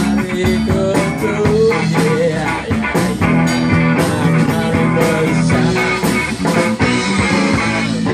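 Live blues-rock band playing an instrumental passage: electric guitar lines with bent notes over bass and a steady drum beat.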